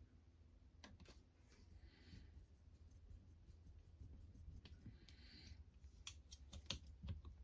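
Faint scattered clicks and two brief scraping sounds of small parts and tools being handled, with a few sharper clicks near the end.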